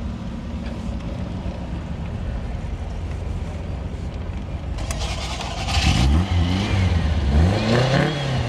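MG Midget engine idling steadily, heard from inside the cabin, then about six seconds in it gets louder and revs as the car pulls away, the pitch climbing and dropping at each gear change.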